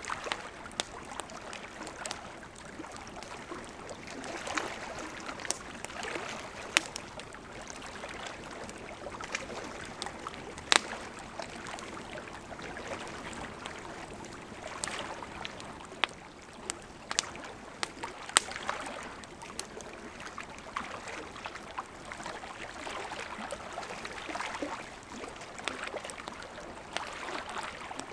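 Wood fire crackling: a steady hiss of burning with frequent irregular snaps and pops, a handful of sharper pops standing out.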